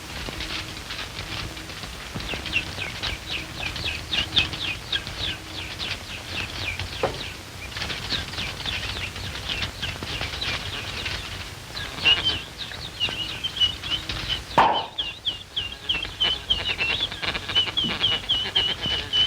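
Rapid bird-like chirping: short falling chirps, several a second, over the steady hiss of an old film soundtrack. The background changes abruptly about two-thirds of the way through, and the chirps then continue more evenly.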